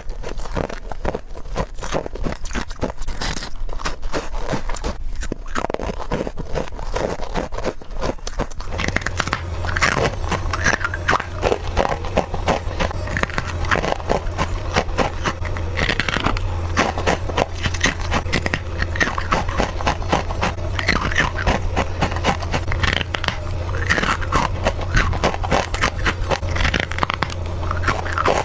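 Rapid, continuous crunching bites of freezer frost and ice. A steady low hum comes in about nine seconds in.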